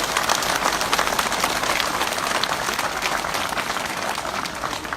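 Crowd applauding, a dense patter of many hands clapping that begins to die down near the end.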